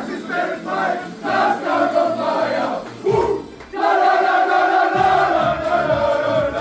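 A group of voices singing a chant together: short rhythmic syllables for about three seconds, then one long held note.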